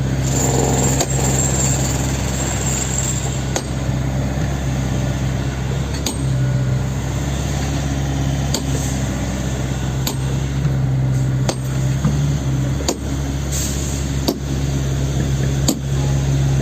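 Handheld breaker hammer (jackhammer) chipping concrete off the head of a bored pile, running steadily with a low hum and sharp knocks every second or two.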